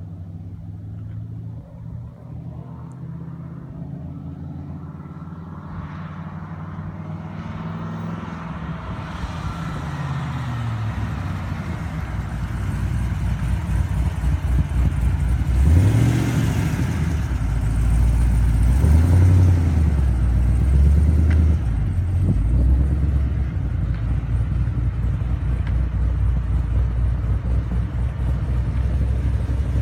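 Car engine growing steadily louder as it approaches, loudest about halfway through, then running loud with its pitch rising and falling several times as it revs.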